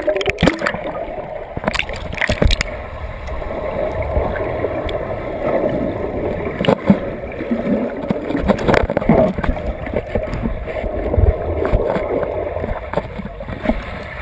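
Turbulent water churning and gurgling steadily, with splashes.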